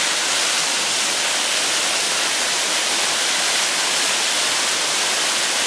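A roughly 55-foot waterfall pouring down, a steady, loud rushing hiss of falling water.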